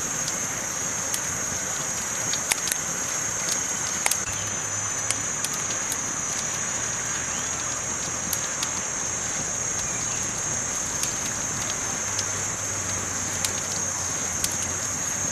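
Campfire burning: a steady hiss with sharp crackling pops at irregular intervals, a few every couple of seconds.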